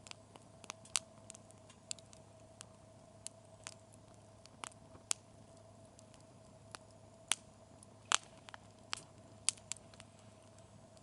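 Wood campfire crackling with sharp, irregular pops and snaps over a faint steady hum.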